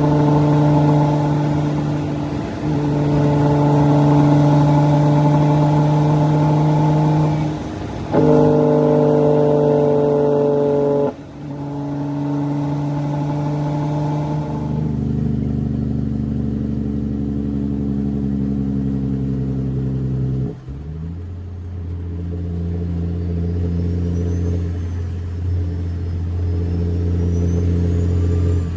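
Straight-piped CAT C13 inline-six diesel of a Kenworth W900B dump truck running under way. The engine note holds steady between a few short dips and drops to a lower pitch in steps twice in the second half, as with gear changes.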